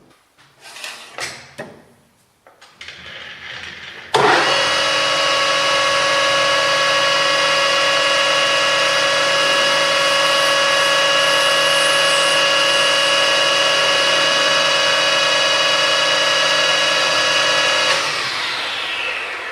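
Metal lathe started up, spindle turning at a steady speed with a constant multi-tone whine while the end of a 16 mm bar is faced off, then switched off near the end and winding down in falling pitch. A few faint knocks of handling come before it starts.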